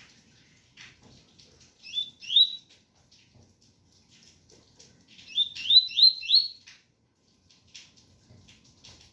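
Double-collared seedeater (coleiro) singing the 'ganga 001' song with 'tui tui' notes: quick rising whistled notes, a pair about two seconds in and a run of four from about five to six and a half seconds in, with softer short chips between.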